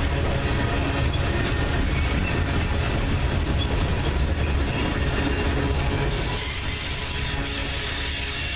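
Freight train cars rolling past: a steady rumble of steel wheels on rail with a faint wheel squeal. The rumble eases a little about six seconds in.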